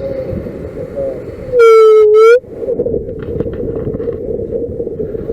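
A loud, short horn-like blast lasting under a second, its pitch dipping slightly and rising again at the end, over a steady drone and wind noise on the microphone.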